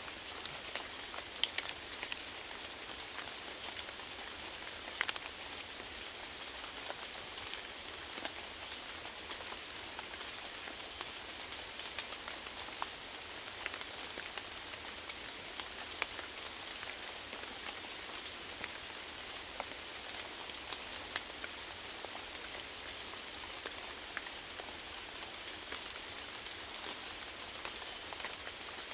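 Steady rainfall, a continuous hiss of rain with many individual drops ticking on a hard surface.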